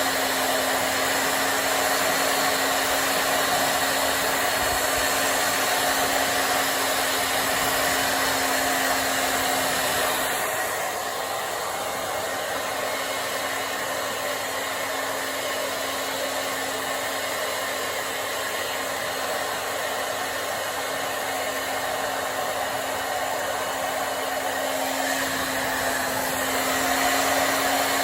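Hair dryer running steadily while hair is dried, an even rush of air with a steady motor hum. It gets a little quieter about ten seconds in and louder again near the end.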